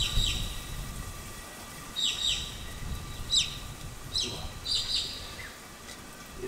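Birds chirping: about five clusters of short, high-pitched, falling chirps spaced a second or so apart, over a faint low rumble that fades after the first second.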